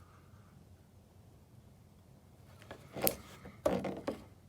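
Quiet room tone, then about three seconds in a few short clicks and rubbing sounds of something being handled.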